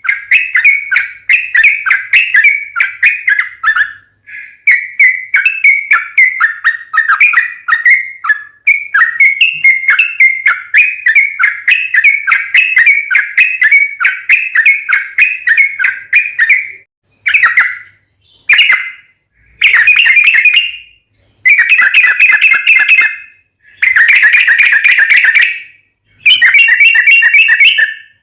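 Yellow-vented bulbul (trucukan) singing its long rolling fighting song: fast bubbly chattering phrases, almost unbroken for the first two-thirds, then broken into separate bursts of a second or two with short pauses. It is a loud lure recording for provoking kept bulbuls to answer.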